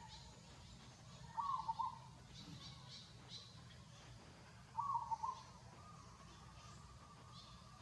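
An animal call repeated twice, about three seconds apart, each a short call of under a second at the same pitch, with faint high chirps in between.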